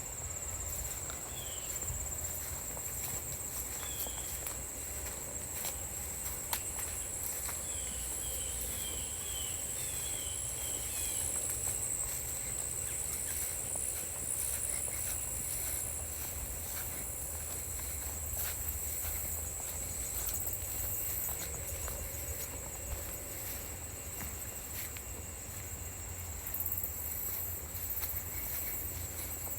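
Woodland ambience: a steady high, unbroken drone of insects, with a few faint short chirps in the first third and occasional soft footsteps on the forest floor.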